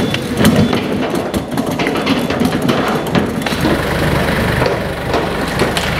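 Clattering knocks of heavy equipment being handled, joined about halfway in by an engine running steadily at idle.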